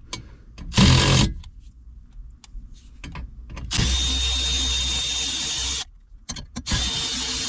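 Cordless power driver spinning a 10 mm socket on car trim or steering-column fasteners. There is a short loud burst about a second in. A steady whining run of about two seconds comes past the middle, and another run starts near the end.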